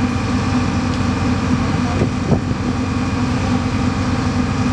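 Boat engine running steadily, a loud, even drone.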